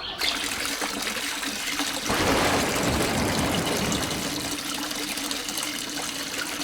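Running water gushing steadily, with a faint steady hum underneath.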